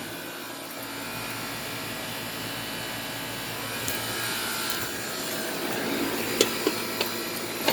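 Residential central air conditioner condensing unit still running, a steady hum and whoosh of compressor and condenser fan, with a few light clicks near the end.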